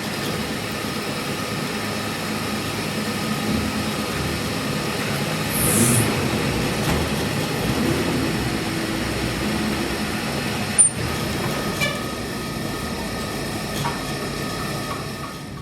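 Steady running noise of workshop machinery, with a short high hiss about six seconds in and a sharp click near eleven seconds.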